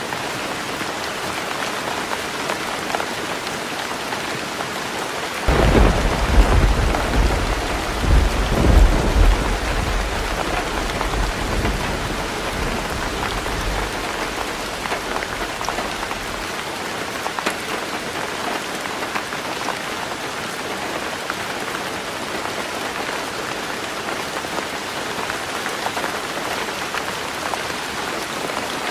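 Heavy rain falling on a roof, a steady even hiss. About five seconds in, a roll of thunder breaks in suddenly, rumbling deep and loud for several seconds before fading back under the rain.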